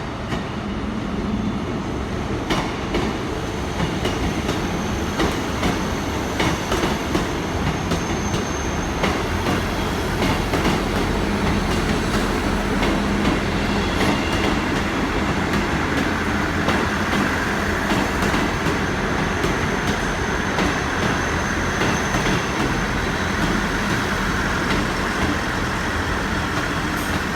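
Class 159 diesel multiple unit arriving along the platform: diesel engines running under the cars and wheels clacking over rail joints. A faint high wheel or brake squeal comes and goes.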